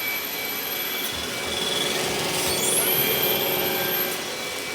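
Robot vacuum running, its suction fan and brushes making a steady whine. It gets louder and fuller for about three seconds in the middle.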